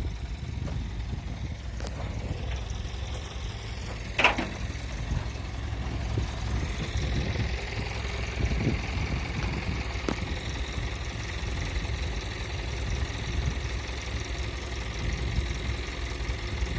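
Truck diesel engine idling steadily during the loading of a pickup onto a recovery truck, with a sharp clank about four seconds in. A steady higher whine joins the engine from about six and a half seconds on.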